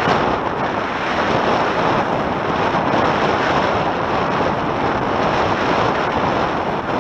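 Wind buffeting the microphone and water rushing past the hulls of a Tornado catamaran sailing upwind at speed, a steady loud rush with no let-up.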